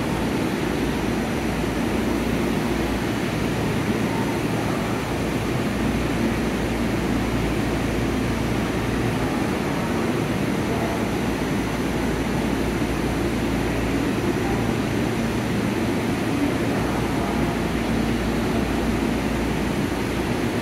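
Steady hum and whir of a stopped 681 series electric train's onboard equipment idling at a station platform, with no change in level.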